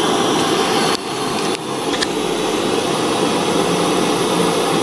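Steady rushing noise of a soldering torch flame melting silver solder and flux for brazing an eyeglass frame. It dips briefly about a second in and again half a second later, with a small click about two seconds in.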